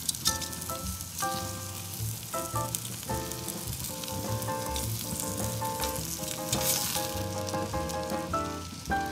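Ribeye steak sizzling on a grill grate over hot charcoal, with small crackles as fat flares on the coals. Background music with a melody plays over it.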